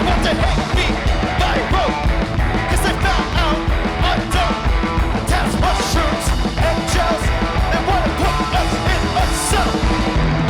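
Live rock band playing loudly: guitar, drums with cymbal crashes, and singing with yelled vocals.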